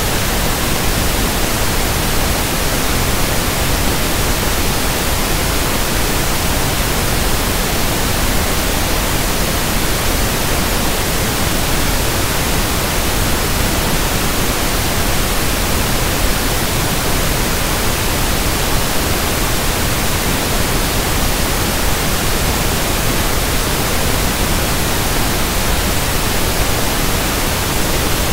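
Steady pink noise (1/f noise): an even, unbroken hiss across the whole range, deeper and softer than white noise, with no change in level.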